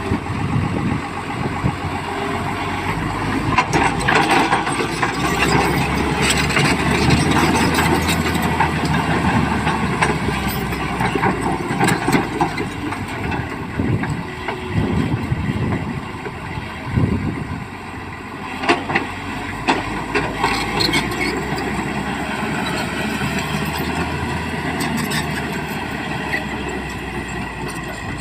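Tata Hitachi EX200LC excavator's diesel engine running steadily as it works, with a few sharp knocks about midway and in the latter half.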